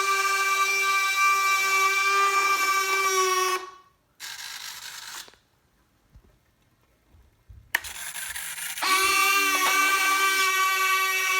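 Steady high whine with many overtones from the electric motor of an E-flite Blue Angels RC model jet. It cuts off about three and a half seconds in, and after a few quiet seconds it starts again with a click near eight seconds in, settling back to full level a second later.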